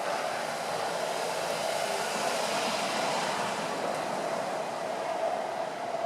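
JR East E231-1000 series electric train running past at speed: a steady rushing noise of the passing cars.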